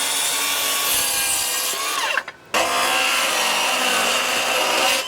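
Power saw cutting a pine floorboard in two passes: about two seconds of steady motor whine and cutting noise, a brief pause with the pitch sliding down about two seconds in, then a second run of about the same length.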